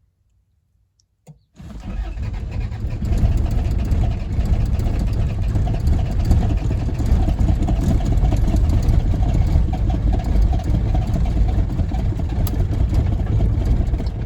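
A click, then the 1981 Isuzu Pup's 2.2 L C223 diesel cranking hard on the starter for about twelve seconds without running on its own before stopping. This is a hard cold start after sitting a week, which the owner suspects is from fuel draining back past a leak at the cold start device (CSD).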